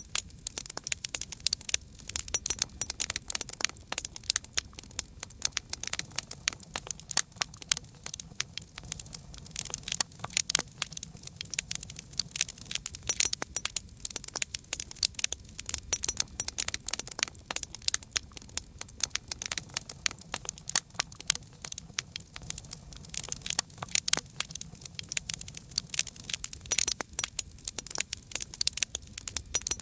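Campfire crackling: a dense, irregular stream of sharp pops and snaps from burning wood, over a faint low rumble of the flames.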